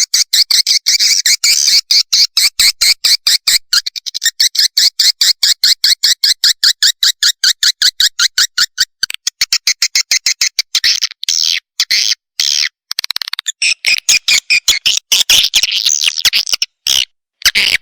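Swiftlet chick calls from a lure recording: rapid high chirping, about five or six chirps a second, broken by a few short pauses in the second half.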